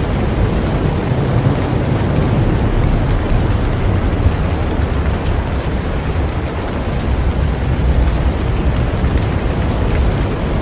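Heavy rain falling on a boat: a steady, dense hiss with a deep low rumble underneath.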